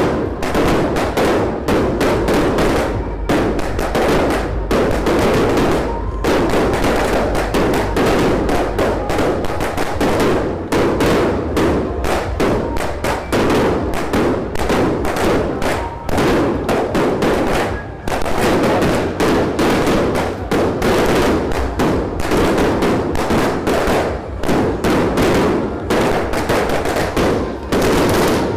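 Firecrackers going off in a rapid, unbroken crackle of bangs.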